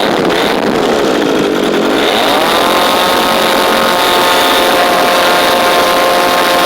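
3W-150 gasoline model aircraft engine running on test, unsteady at low speed, then opened up about two seconds in to a steady high-speed run that is held.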